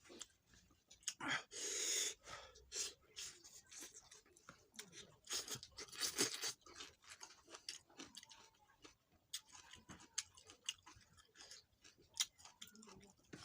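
Close-up eating sounds: a person chewing and smacking on a cooked chicken meal, with irregular wet clicks and a few louder crunching, tearing bites.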